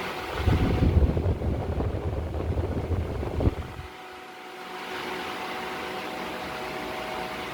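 Wap Flow Turbo tower fan running with a steady whoosh and a faint motor hum. For about three seconds early on, a loud, uneven low rumble covers it. Then the sound dips about four seconds in before the fan's steady whoosh returns.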